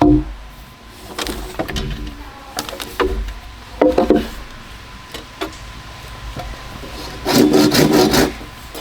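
Bamboo being worked by hand: irregular scraping and knocking strokes on the poles, with a quick run of strokes about seven seconds in.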